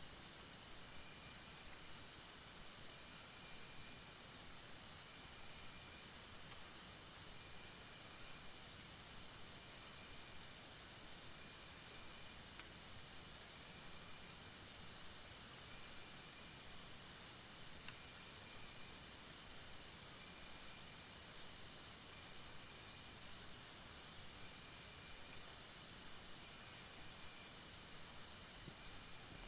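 A chorus of night insects, crickets among them, trilling steadily in fast high-pitched pulses. Through it runs a fainter, lower chirp that repeats about every second and a half.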